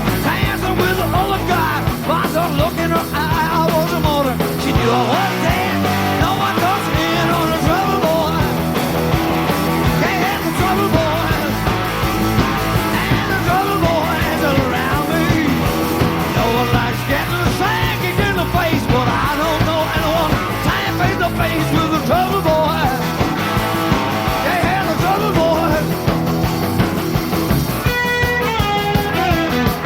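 Live rock band of electric guitars, bass guitar and drums playing an instrumental break, with a lead guitar line bending notes over a steady rhythm.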